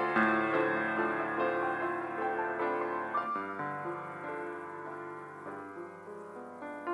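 Solo piano playing a slow, gentle piece, notes and chords struck one after another, growing softer through the middle and fuller again near the end.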